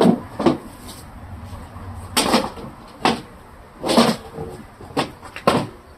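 A series of short knocks and clatters, about seven over a few seconds, from hard plastic refrigerator shelves and bins being handled and set down while they are being washed.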